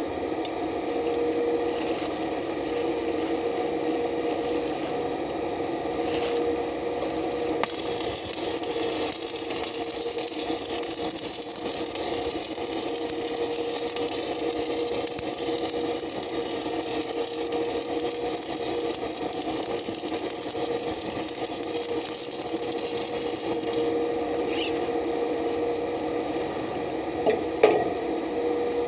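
Stick (shielded metal arc) welding: the arc crackles and hisses steadily from about eight seconds in to about twenty-four seconds, over a constant machine hum. A few sharp knocks near the end.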